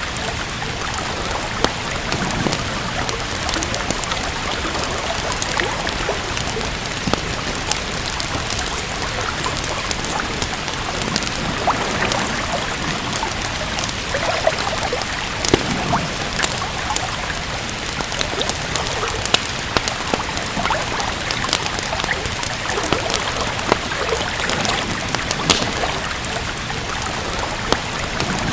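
Steady rain hissing, with frequent sharp crackles and pops from a wood fire in a fireplace.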